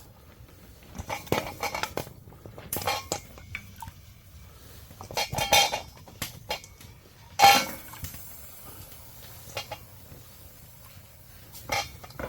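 Pots and metal utensils being handled: scattered clanks and clinks, a few with a short ring, the loudest two about halfway through and a couple of seconds later.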